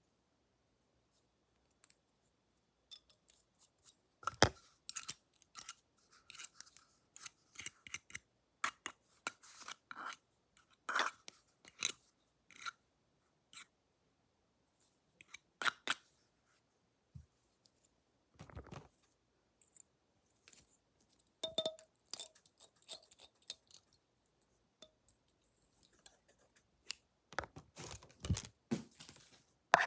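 Scissors snipping close to the microphone in irregular crisp snips and clicks with short pauses.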